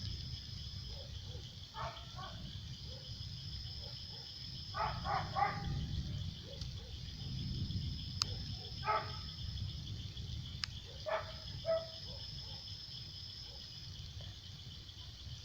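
Insects chirping in a steady high trill, with a second higher insect buzz that starts and stops every few seconds. A dog barks in the distance about eight times, three in quick succession about five seconds in, over a low rumble.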